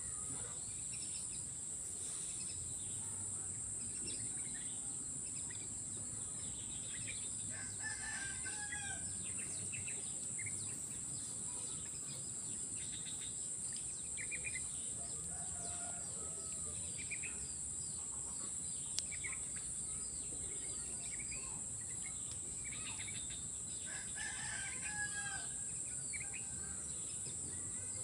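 Steady high-pitched insect drone, with short bird calls scattered through it.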